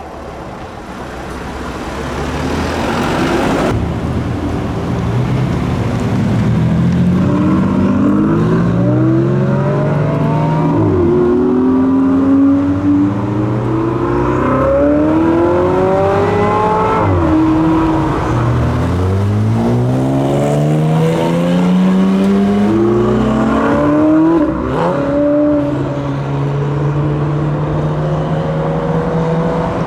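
Car engine accelerating hard through the gears. The pitch climbs and falls back at each shift several times, then holds steady near the end.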